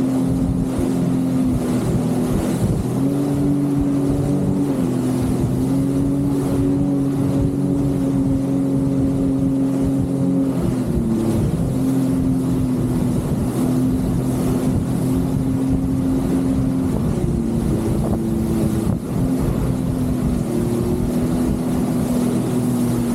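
Jet ski engine running steadily under way, its pitch shifting up and down a little every few seconds with the throttle.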